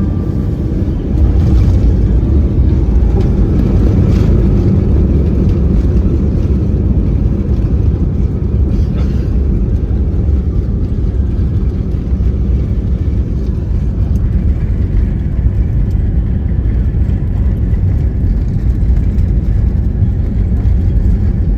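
Airliner cabin noise: a loud, steady low rumble of the jet engines and airflow, growing louder about a second in.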